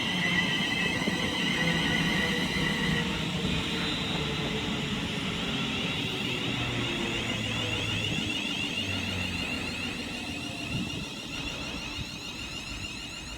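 Class 350 Desiro electric multiple unit slowing into the platform: high, steady traction-inverter whine with lower tones stepping down in pitch, the whole sound fading as the train comes to a stand.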